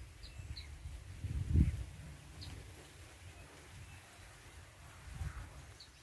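A small songbird gives a few short, high chirps: two near the start and one about two and a half seconds in. Under them is a low rumble on the microphone, strongest about one and a half seconds in.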